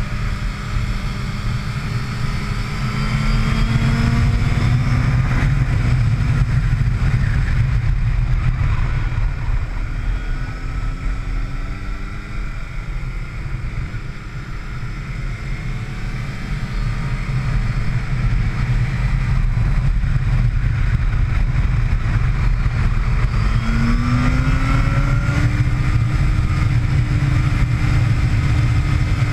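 Sport motorcycle engine on track, its pitch climbing as it accelerates, dropping as it slows about halfway through, then climbing again near the end, over a heavy low rumble.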